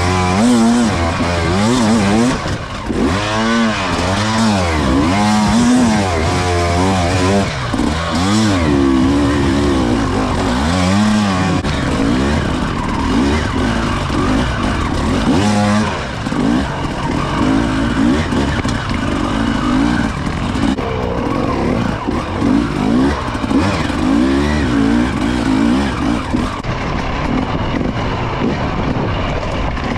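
Motocross bike engine being ridden hard, its pitch rising and falling over and over as the throttle opens and closes and the gears change, running steadier in the second half.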